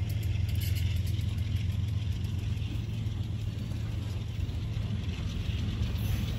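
Freight cars rolling past close by: a steady low rumble of steel wheels on the rails, with a few light clicks near the start.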